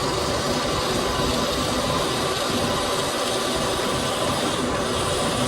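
Steady workshop machinery noise: an even hiss with a faint hum of a few steady tones, unchanging throughout.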